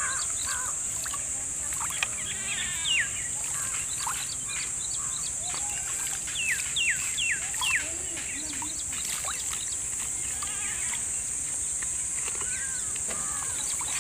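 Birds calling outdoors: a sharp falling chirp about three seconds in, then a quick run of four falling whistled calls around seven seconds in, over a steady high hiss.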